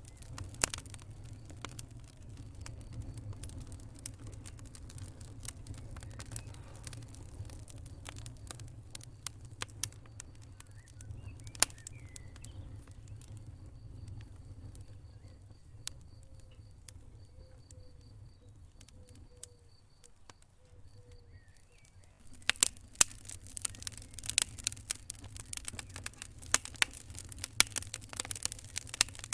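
Wood fire burning in a fireplace: a steady low rumble with scattered sharp crackles and pops. After a brief lull about twenty seconds in, the crackling turns much denser and louder.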